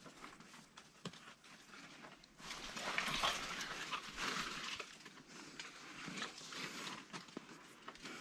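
Rustling and scraping of leaves and branches being handled, with scattered small knocks and clicks; the rustling grows louder a couple of seconds in and eases off near the end.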